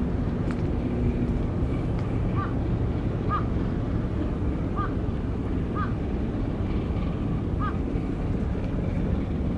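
A steady low rumble with wind on the microphone. Over it a bird gives short, repeated calls, one every second or two.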